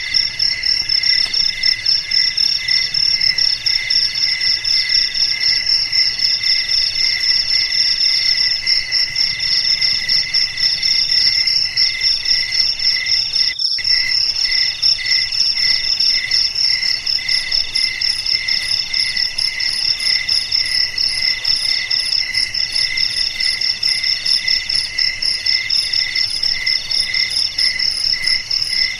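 Chorus of crickets trilling steadily at several pitches. A high continuous pulsing trill runs throughout, and a lower one comes in repeating phrases of about two seconds. The whole sound drops out for a moment about halfway through.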